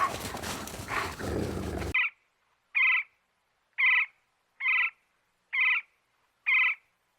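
Animal calls: a rough, noisy call that cuts off abruptly, then five short, identical high squeaks about a second apart with silence between them.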